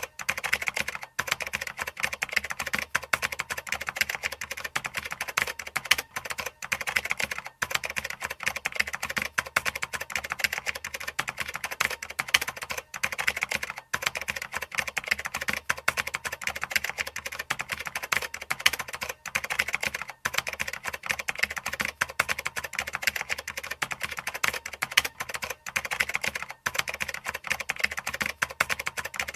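Rapid, continuous typing on a computer keyboard: a dense run of key clicks, broken by a few momentary pauses.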